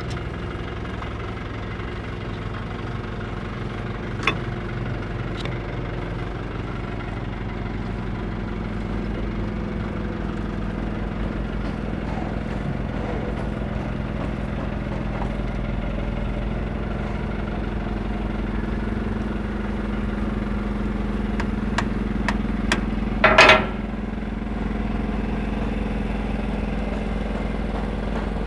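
An engine idling steadily, with a few sharp clicks early on and a brief, louder clatter about 23 seconds in.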